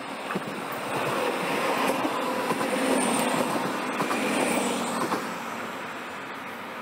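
A train passes on the track, growing louder to a peak about three seconds in and fading after about five seconds, with a few sharp clicks along the way.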